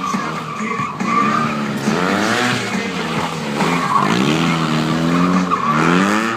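Stunt motorcycle engine revving hard through a burnout, its pitch rising in three surges, with the rear tyre squealing against the pavement.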